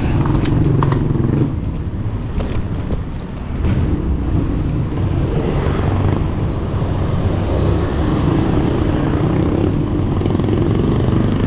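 Road traffic heard from a bicycle: the engines of motor vehicles running close by as a steady low rumble, dipping slightly a couple of seconds in before picking up again.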